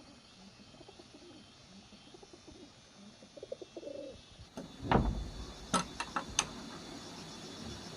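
A dove cooing faintly, followed about five seconds in by a loud thump and then a few sharp clicks.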